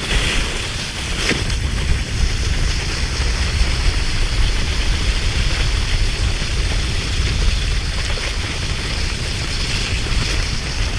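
Wind buffeting the microphone: a low flutter under a steady hiss.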